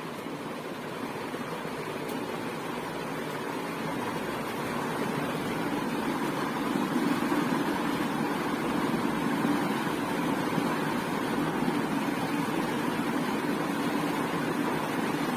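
Ceiling fan running with a steady whoosh of moving air, growing louder over the first several seconds and then holding even.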